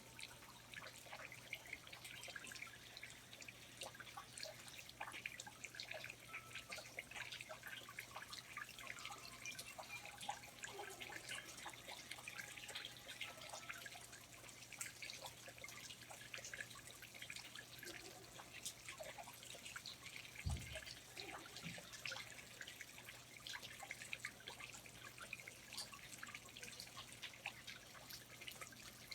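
Quiet rainforest ambience of water dripping from foliage: many small, irregular drips. A single low thump comes about twenty seconds in.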